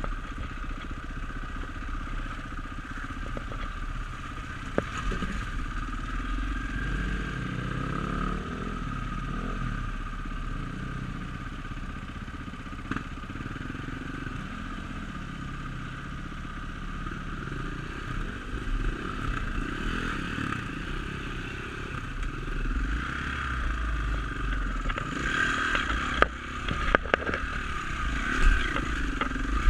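Dirt bike engine running, its pitch rising and falling as the throttle is worked, with a few sharp knocks and rattles near the end.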